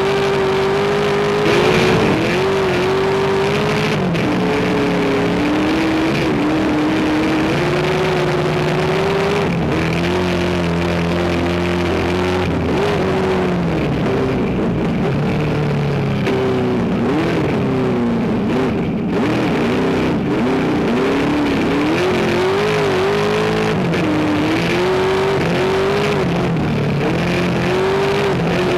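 Race car engine running hard without a break, its pitch rising under acceleration and dropping back again and again as the driver shifts and lifts through the corners.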